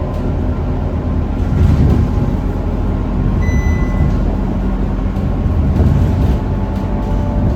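Scania K230UB city bus's five-cylinder diesel engine running steadily, with a brief high beep about three and a half seconds in.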